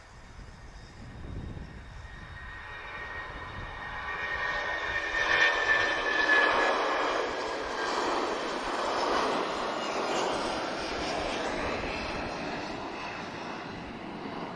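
Boeing 757-200 freighter's Rolls-Royce RB211 turbofans at take-off power as the jet passes. The roar builds over the first few seconds with a thin whine in it, peaks about halfway through, then slowly fades.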